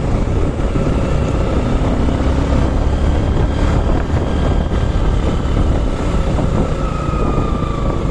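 Riding noise from a Suzuki Gixer SF motorcycle on the move: a steady low rumble of wind and engine with road traffic behind it.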